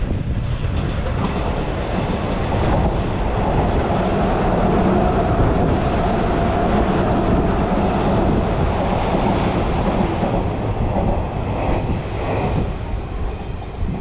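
Hanshin 9000 series electric train running along the platform, its wheels clattering over the rail joints. A steady loud rumble with a held tone in the middle, easing a little near the end.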